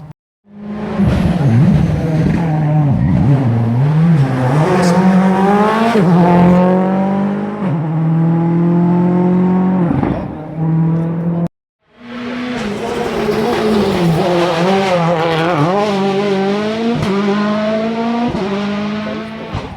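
World Rally Car turbocharged four-cylinder engines driven hard on a rally stage, the pitch rising and falling repeatedly through gear changes and lifts. The sound stops abruptly about halfway, and after a brief silence a second stretch of the same hard-revving engine sound follows.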